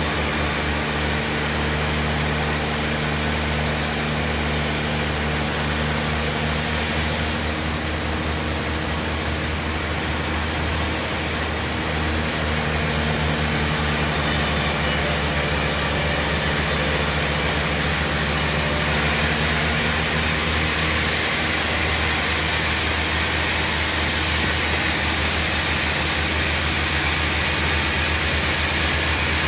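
Log band sawmill running, a steady low machine hum with a hiss over it that grows a little louder about twelve seconds in.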